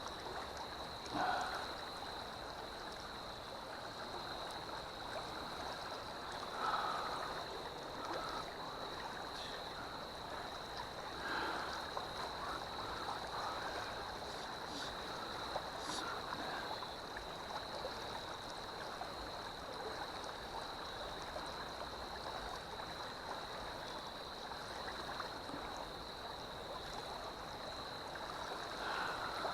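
River water flowing and rippling, with a steady high-pitched whine over it. A few brief louder swishes come in the first dozen seconds.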